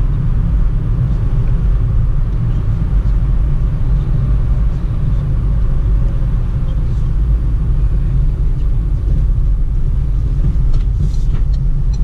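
In-cabin road and engine rumble of a Peugeot Partner cruising at about 70 km/h, steady and low. Near the end, turn-indicator ticking starts, a couple of clicks a second.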